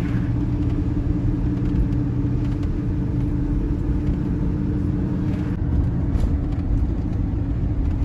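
Vehicle engine and road noise while driving: a steady low drone with a constant hum.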